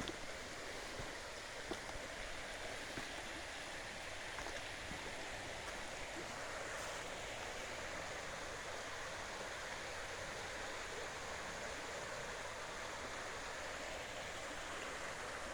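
Small stream running over stones through a stone culvert: a steady, even rush of water.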